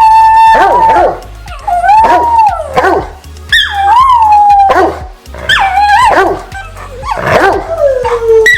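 Old English Sheepdogs howling and yipping: several drawn-out calls overlap, rising and falling in pitch.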